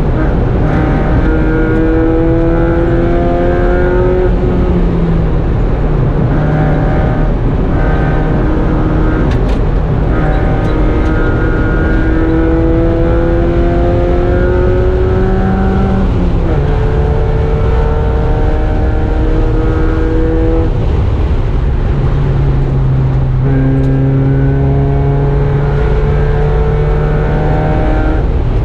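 Mazda Miata race car's four-cylinder engine heard from inside the cabin on track. Its note climbs slowly under throttle, drops back, then climbs again about five times, over steady road and wind noise.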